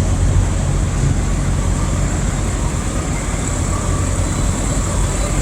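Large vehicle engine idling: a steady low rumble with no change in speed.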